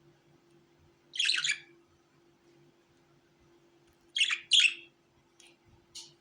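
Budgerigar chirping: one call about a second in, two more in quick succession just after four seconds, then two short, fainter chirps near the end.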